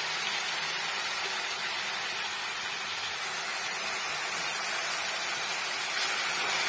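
Onions, green chillies and grated carrot sizzling steadily in hot oil in a pan, with a spatula stirring them about six seconds in.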